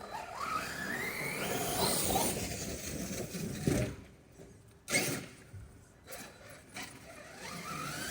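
Arrma Kraton RC truck's brushless electric motor whining up in pitch as it accelerates, over tyre noise. Two thuds follow, about four and five seconds in.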